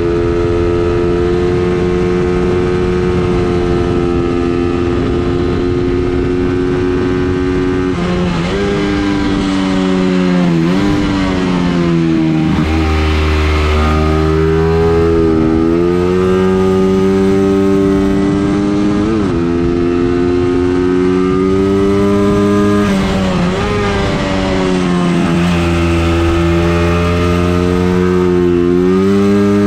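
A racing vehicle's engine running hard on an engine test run, its pitch holding or climbing slowly and then dipping sharply and recovering about five times as it shifts or slows for corners.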